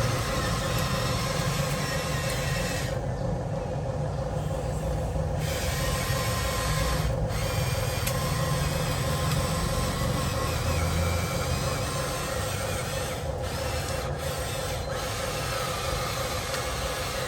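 Huina 1:14 RC construction machine working, its electric motors running with a steady hum under continuous scraping and rubbing.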